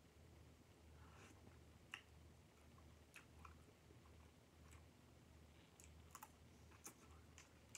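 Faint eating sounds: soft chewing with scattered small mouth clicks and smacks from eating with the fingers and licking them, over a low steady hum.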